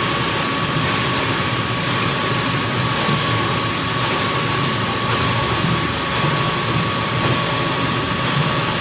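Concrete mixer truck running: a steady, loud mechanical rumble and hiss with a constant high whine held on one note.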